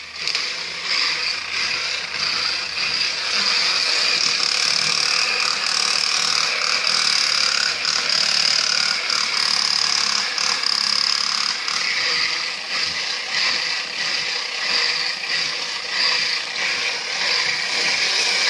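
Small electric motor and plastic gearbox of a battery-powered walking toy robot running as it walks and swings its arms: a steady high whir with faint clicking.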